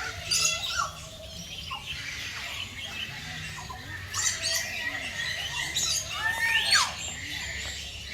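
Birds squawking: loud harsh calls about half a second in, again around four and six seconds in, and a sharp call that sweeps up and down in pitch near the end.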